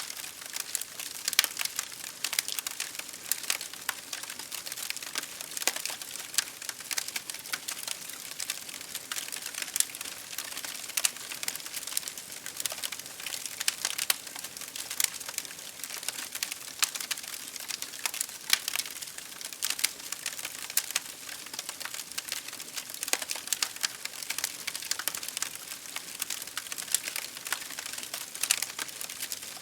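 Wood fire crackling in a fireplace, with rain pattering on a window pane: a steady high hiss dotted with many small, irregular pops and ticks.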